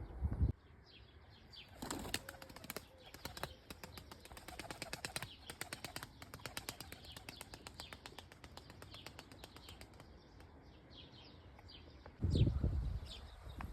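Pigeon wings flapping in a long run of quick beats, with high short chirps before and after. A loud low rumble comes in near the end.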